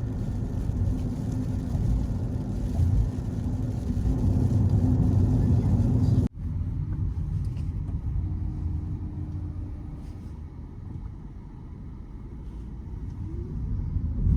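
Steady low rumble of road and engine noise inside a moving car's cabin, cutting off for an instant about six seconds in and continuing a little quieter after.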